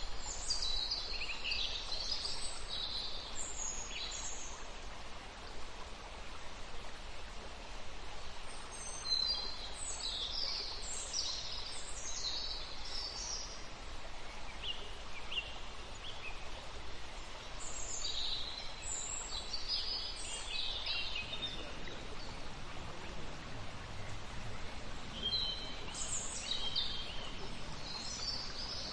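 Wild birds chirping and calling in spells of quick, high notes every few seconds over a steady background hiss.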